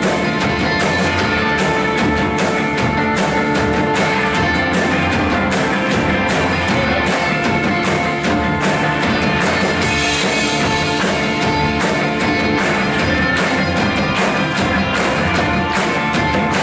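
Live worship band playing an instrumental stretch with drums and electric guitar at a steady beat.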